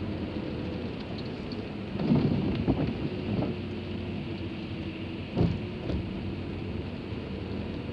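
Steady car cabin noise with an engine hum, broken by a few dull thumps, a cluster about two to three seconds in and two more about five and a half and six seconds in.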